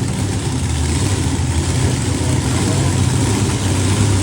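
Monster truck engine running steadily at idle, a loud, low-pitched, even sound.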